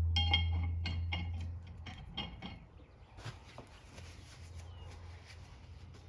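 Small metal parts and tools clinking as they are handled, about half a dozen light ringing clinks in the first two and a half seconds, then a few fainter ticks. A low steady hum runs under the start and drops away about a second and a half in.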